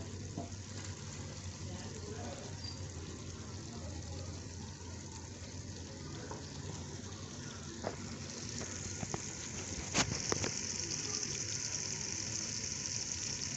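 Okra and meat sizzling as they are stir-fried in a pot, cooking down until the okra turns tender. The hiss is steady and grows brighter after about eight seconds, with a couple of sharp knocks of the spatula against the pot around the middle.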